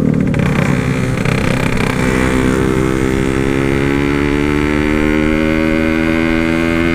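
Yamaha RX-King's 135cc two-stroke single-cylinder engine running through an aftermarket exhaust. It is uneven for about the first two seconds, then holds a steady note at constant revs.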